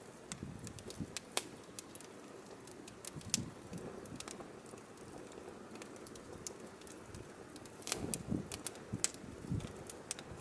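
Firewood burning, crackling with irregular sharp pops that come thickest near the end, over a low, uneven rumble.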